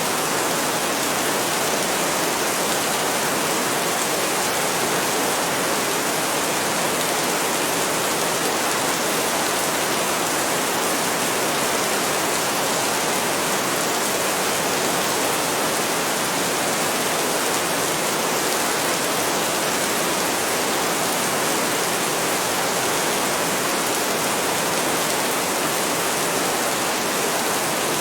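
Heavy rain falling steadily: a dense, even hiss with no thunder and no change in level.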